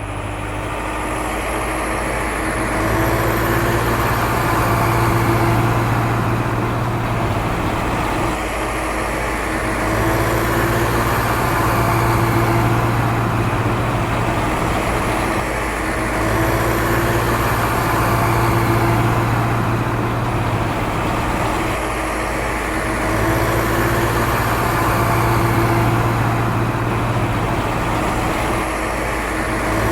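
Small RC tractor's electric motor and gearbox running steadily under load, a low hum with a high whine, swelling and easing about every six and a half seconds.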